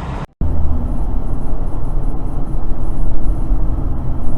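A short break to silence, then a steady, loud low rumble of a car on the road: engine and tyre noise.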